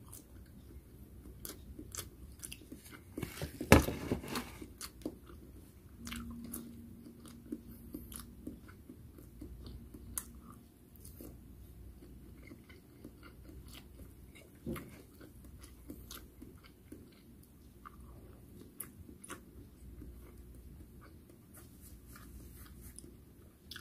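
A person chewing fried food close to the microphone: soft, wet mouth clicks and smacks, with one louder burst just under four seconds in.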